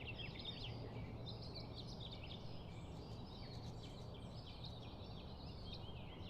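Faint background ambience of many small birds chirping and twittering continuously, over a low steady hum.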